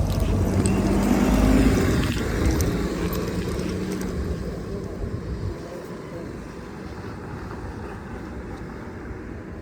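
City bus engine rumbling, loudest in the first two seconds, then dying away about five and a half seconds in, leaving a quieter steady background noise.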